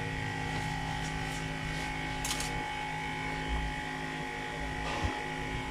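Steady electrical hum from the repair-bench equipment, with a short hiss about two seconds in and a light click near the end.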